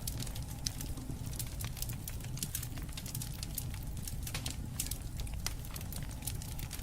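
Campfire burning with irregular sharp crackles and pops of wood over a steady low rumble of the flames.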